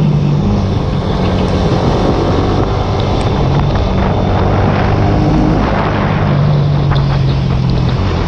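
Small single-cylinder sport motorcycle engine running hard, its note shifting in pitch a few times, with heavy wind rush over the microphone.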